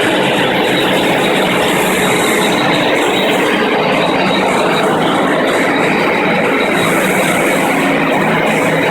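FastPrep concrete floor grinder running with 16-grit single-rhombus diamond grinding plates on a concrete floor: a loud, steady grinding noise over a low motor hum.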